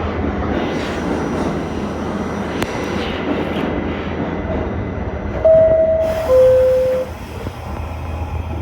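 R68 subway car's steady running rumble, then a descending two-tone door chime, a higher note and then a lower one each lasting under a second, about five and a half seconds in, signalling the doors are about to close.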